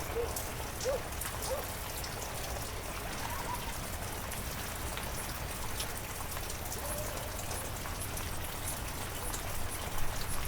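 Heavy rain falling steadily, with individual drops ticking close by. A few short, faint pitched calls of some animal rise and fall through it.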